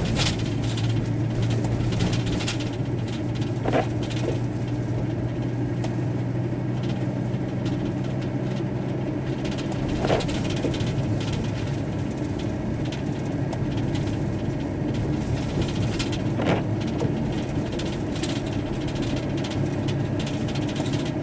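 A van driving, heard from inside the cab: a steady engine hum with road and tyre noise, and a few faint knocks.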